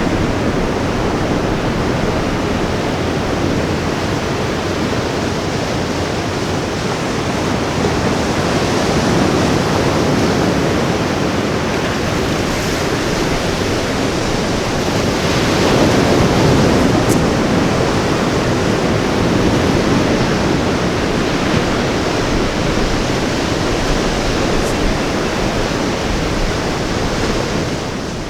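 Ocean waves breaking on a beach, a steady wash of surf that swells and eases, with one stronger surge about halfway through. The sound fades out right at the end.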